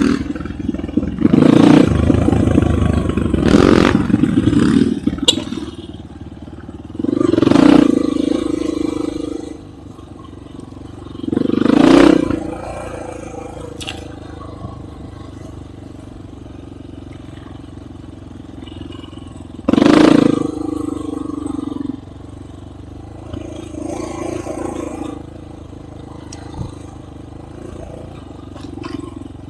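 Enduro motorcycle engine running under way, revving up in about five throttle bursts: the loudest in the first few seconds and again about twenty seconds in, with steadier, quieter running in between.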